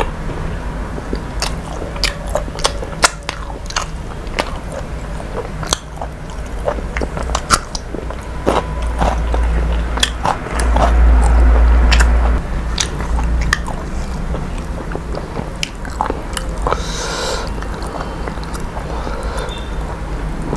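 A person chewing and biting food close to the microphone, with many short crunchy clicks. A low rumble swells for a couple of seconds about halfway through.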